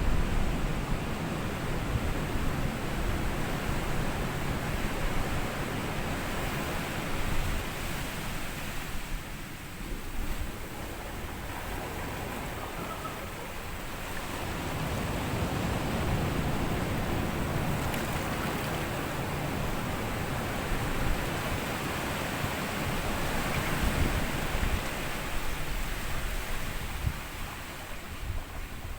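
Small sea waves washing onto a sandy beach and drawing back, a continuous surf noise that swells and eases over several seconds, with wind on the microphone adding a low rumble.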